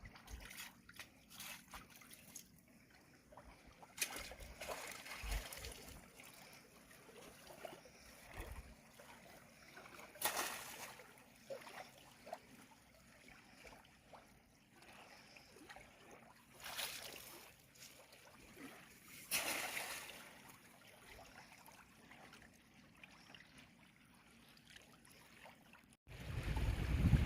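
Water splashing and trickling in short separate bursts. Near the end, wind starts buffeting the microphone with a loud low rumble.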